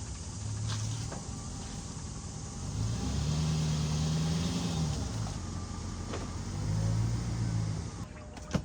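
Jeep engine running, its pitch rising and holding for a second or two twice, about three seconds in and again near seven seconds, as the throttle is lightly opened.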